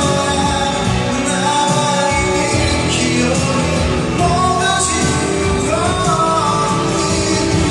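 A band playing a pop-rock song with a singer's voice over it.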